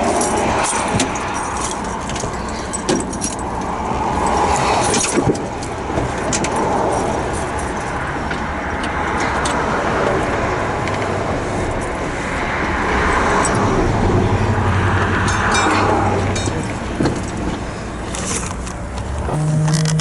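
A vehicle engine running steadily, with scattered clicks, knocks and rattles, and a stronger low hum swelling for a couple of seconds in the middle.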